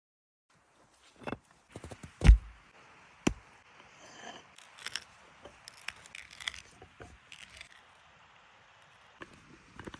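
Irregular sharp knocks and scraping, the loudest knock about two seconds in, over a steady rush of flowing water.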